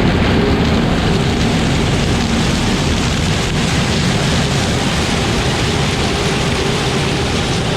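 Tractor engine running steadily under a loud, even rushing noise.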